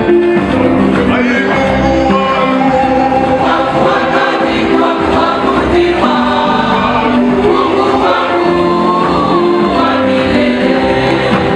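Music: a choir singing gospel music.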